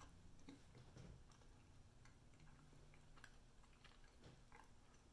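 Near silence with faint, scattered mouth clicks from chewing a bite of firm cheese.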